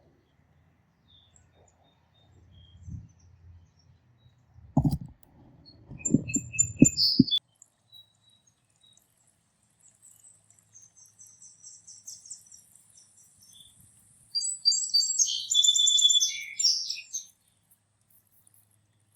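Small wild songbirds calling, with scattered high chirps and then a quick run of song notes for about three seconds near the end. Before that, a few loud low thumps and rustles come at around five to seven seconds.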